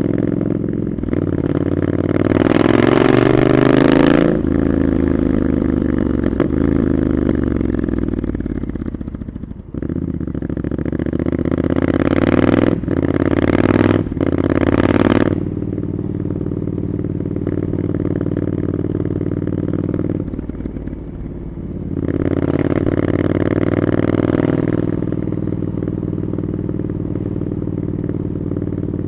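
Triumph Scrambler 900's parallel-twin engine through Arrow exhausts, heard from the rider's seat while riding in traffic. It pulls up through the revs several times, each pull broken by a brief sharp dip, and runs steady at lower revs in between.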